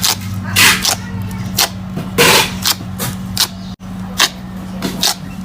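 Slime being squeezed and poked by hand, giving irregular sticky pops, clicks and squelches over a steady low hum.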